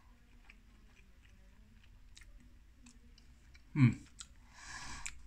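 A person chewing a mouthful of soft burger with the mouth closed, with faint wet mouth clicks. About four seconds in comes a brief hum from the chewer, falling in pitch and louder than anything else. A soft breath out follows.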